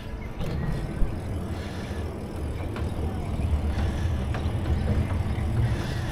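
Bicycle riding heard from a neck-mounted action camera: a low rumble of wind on the microphone and tyre noise, with a single click about a second in.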